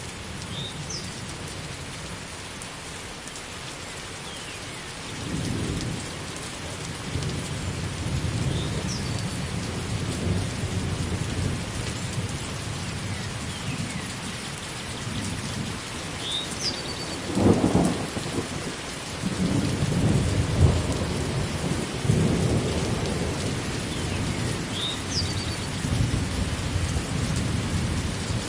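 Steady rain falling with low rumbles of thunder that swell and fade, the loudest about two-thirds of the way through.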